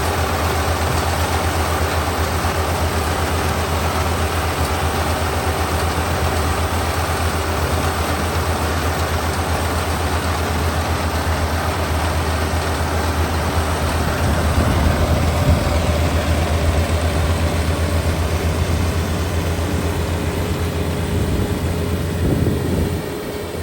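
Kubota ER572 five-row, 72-horsepower combine harvester running steadily with a deep, even engine drone. It grows a little louder about two-thirds of the way through, then drops off near the end.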